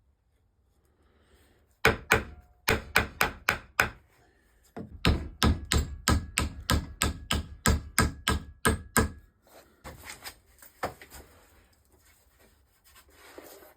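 Hammer blows on wood while fitting a new axe handle: a quick run of about seven strikes, then after a short pause a longer run of about fourteen, roughly three a second. A few lighter taps follow.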